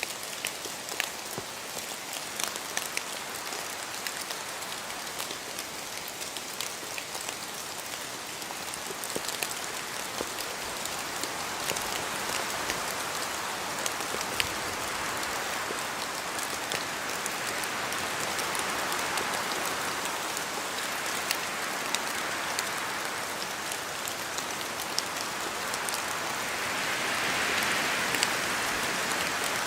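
Steady rain in a forest, with many separate drops from the trees tapping sharply on leaves and the ground. Wind swells through the trees in slow gusts, strongest near the middle and again near the end.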